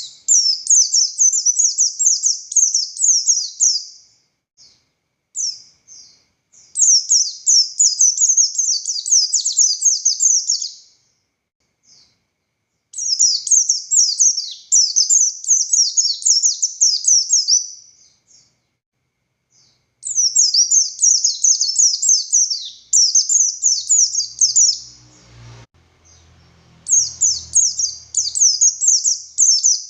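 A white-eye (pleci buxtoni) singing long, rapid bouts of high, sharp, tumbling notes, each about three to four seconds long, with short pauses between them. Shortly before the last bout there is a faint low rumble.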